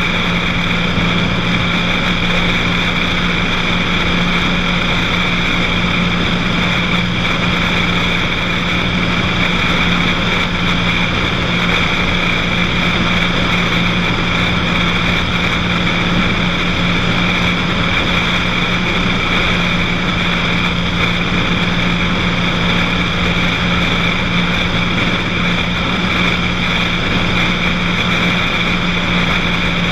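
Cessna 182's single piston engine and propeller running steadily in flight, one constant pitch that does not change.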